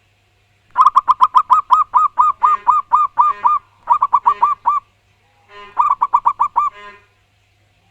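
Zebra dove (perkutut) cooing loudly in three phrases of rapid, staccato repeated notes: a long run early, then two shorter ones.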